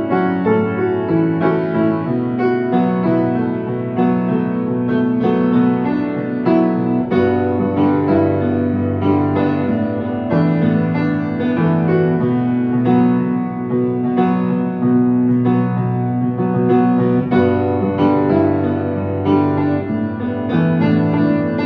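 Solo piano playing a pop song arrangement: chords over a moving bass line, the notes sustained and overlapping with steady, unbroken playing.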